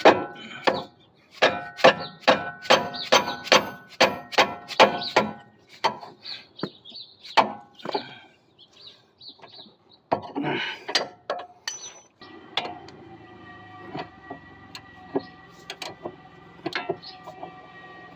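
A dead blow hammer striking a steel breaker bar on a seized 17 mm sway bar link nut, about three ringing metal knocks a second in two quick runs, then a few scattered knocks and clicks as the nut starts to break loose.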